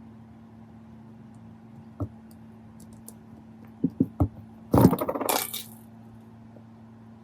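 Small loose metal parts clinking: a few light knocks, then a metallic clatter lasting about a second, a little under five seconds in. A steady low hum runs underneath.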